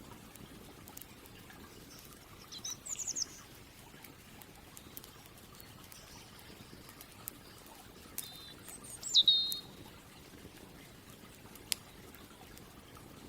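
Songbird calls: a quick run of high chirps about three seconds in, and a louder call that slides down in pitch around nine seconds in. Between them, sparse faint clicks and pops of a crackling campfire.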